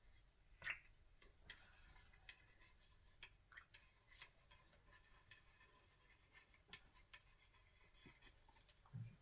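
Near silence: room tone with faint, scattered small clicks and scrapes, a slightly louder click a little under a second in and a short low thump near the end.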